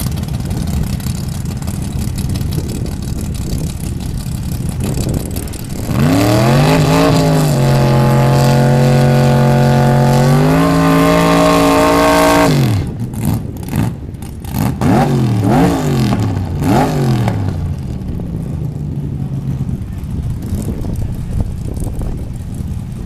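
Drag cars' engines doing a burnout. An engine revs up and is held at high revs for about six seconds, steps a little higher, then drops off. A few quick throttle blips follow before it settles back to a steady idle rumble.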